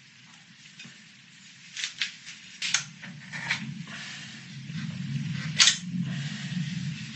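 A few sharp clicks and scrapes of hard objects being handled, over a low steady hum that grows louder about halfway through.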